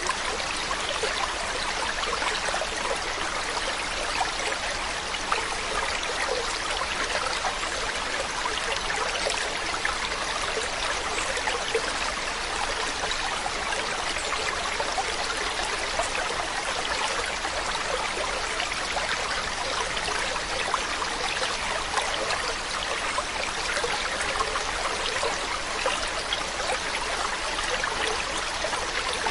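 Running water, a steady trickling stream flow with fine splashy detail and no change in level.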